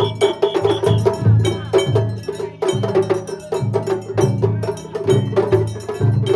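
Japanese festival ohayashi music played on a float: taiko drums beaten in a repeating rhythm, with sharp, bright strikes of small hand percussion over a sustained melody line.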